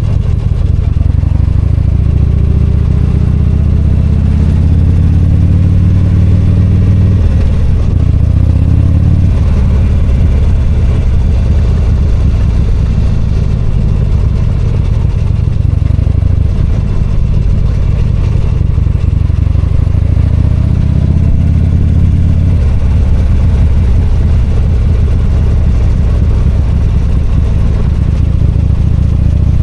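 V-twin motorcycle engine accelerating under the rider, its pitch climbing and then dropping suddenly at upshifts about seven seconds in and again near twenty-two seconds, with steady road and wind rush.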